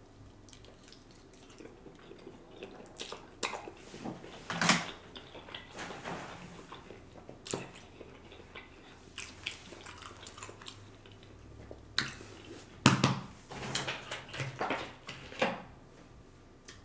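Close-miked chewing of a mouthful of pasta, with wet mouth smacks and clicks. In the second half comes a run of louder clicks and crackles as a plastic water bottle is picked up and its cap twisted off.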